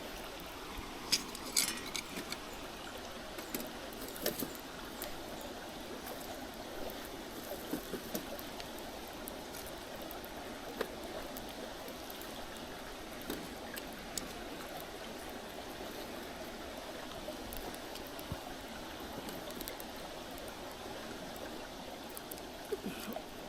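Mountain stream flowing steadily, with scattered sharp crackles from a campfire.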